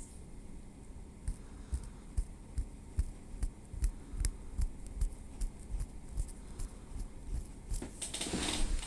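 Tweezers ticking lightly against the scalp and hair in a steady run of small clicks, about three a second. A louder brushing rustle comes in near the end.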